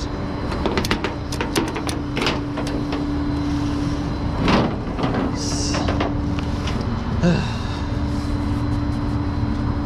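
A vehicle engine idling, a steady low rumble with a constant hum, with a run of sharp clicks in the first couple of seconds and a louder knock about four and a half seconds in.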